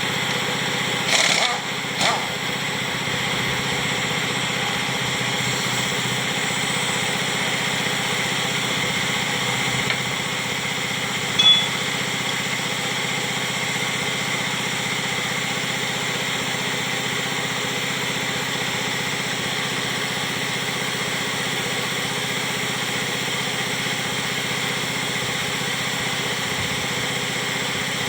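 A small engine or motor running steadily, with a few sharp metallic clinks, the loudest about eleven seconds in.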